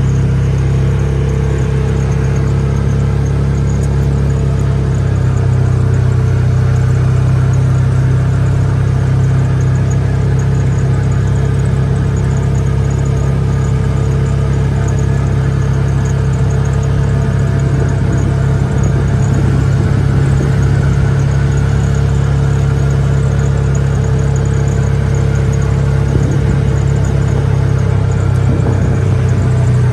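Vehicle engine running steadily at an even pitch as the vehicle drives slowly along.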